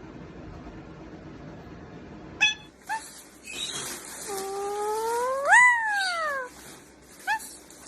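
Parrot imitating a cat's meow: one long drawn-out meow that rises in pitch and then falls, lasting about two seconds, with a few short sharp chirps before and after it.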